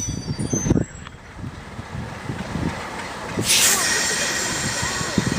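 Train rolling on the rails, its wheels squealing for the first moment, then running quieter with a low rumble, with a short hiss a little past halfway.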